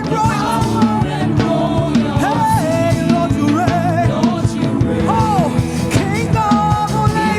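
Live gospel praise-and-worship music: a band with drum kit playing, with a gliding melodic vocal line over it.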